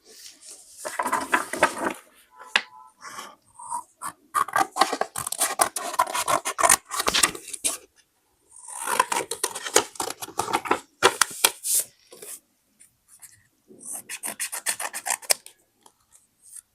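Paper being handled and rubbed: crinkly, scratchy rustling in about four bursts with short pauses between them.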